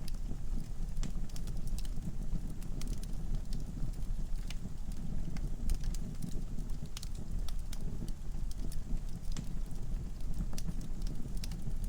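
Wood fire burning in a fireplace: a steady low rumble of the flames with irregular sharp crackles and pops from the logs, several a second at times.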